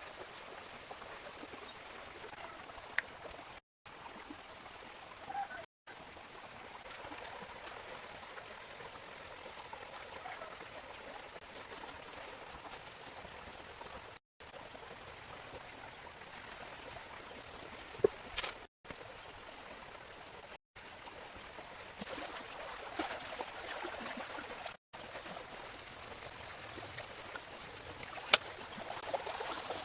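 Outdoor ambience of running water with a steady high-pitched whine over it, broken by a few sharp clicks. The sound cuts out completely for an instant six times.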